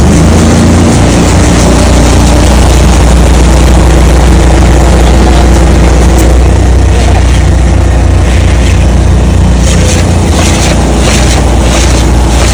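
Bin-cleaning truck's high-pressure washing system running at full power, a loud steady engine-and-pump hum under a wide hiss of water spray. Near the end, regular hissing pulses, about two a second, join in.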